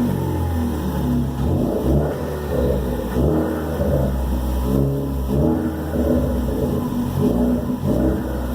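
2016 Ford Focus ST's turbocharged four-cylinder engine with a custom exhaust, revved in a series of quick blips, its pitch rising and falling about once every second or two. A faint falling whine, the turbo sound, trails a couple of the revs.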